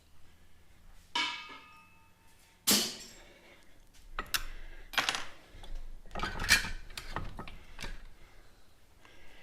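Metal hand tools clinking and clattering as they are put down and handled: a ringing clink about a second in, a louder knock near three seconds, then a run of lighter taps and clicks.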